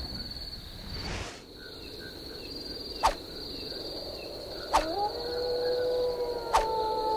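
Three sharp strikes of a hoe digging into the earth, about a second and a half apart, after a brief whoosh, over steady cricket chirping. From about five seconds in, a long animal howl rises and holds.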